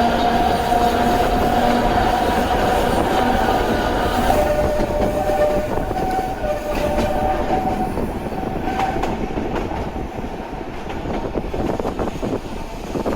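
Narrow-gauge electric train's nose-suspended traction motors and gearing whining at a steady pitch over a running rumble, with wheels clicking over rail joints. The sound slowly grows quieter.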